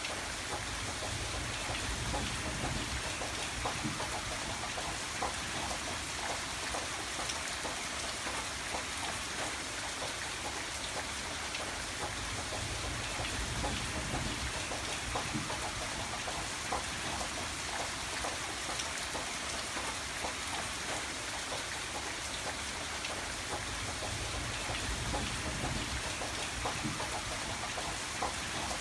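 Steady rain falling, a dense patter of small drops, with a low rumble underneath that swells and fades.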